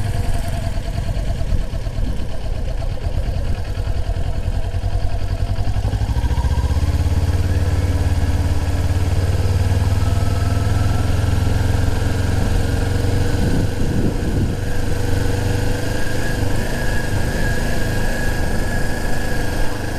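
Motorcycle engine running, its pitch climbing about six seconds in as the revs rise, then running on at a steady, louder pace.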